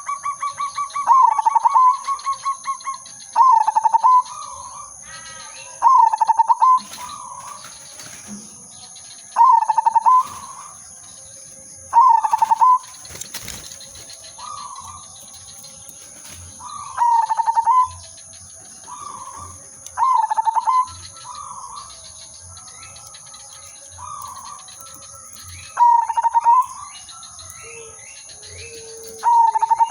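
Zebra dove (perkutut) cooing its song. About ten loud phrases come every two to three seconds, each a quick stuttering run of notes that ends in a held coo. Fainter chirps from other birds fill the gaps between phrases.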